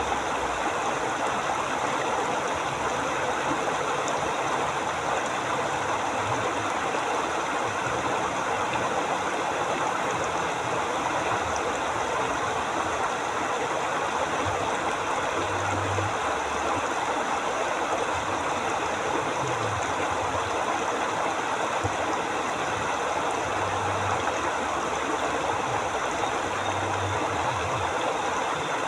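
River water flowing and rushing steadily. A few short, faint low hums sit underneath.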